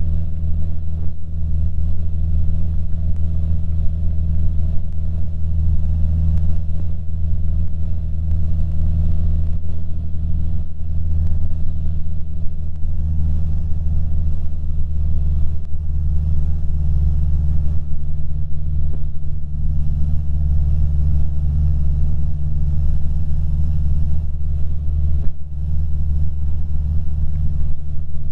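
Cessna 150's Continental O-200 four-cylinder engine and propeller droning steadily in flight, with the engine note dropping slightly about halfway through.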